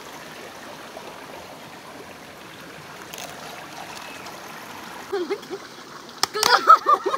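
River water flowing steadily. About five seconds in, people's voices join it, with a sharp click near the end.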